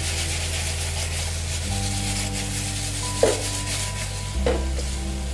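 Chicken sizzling in a pan over a gas flame, under background music with held low chords that change twice. Two sharp knocks come about three and four and a half seconds in.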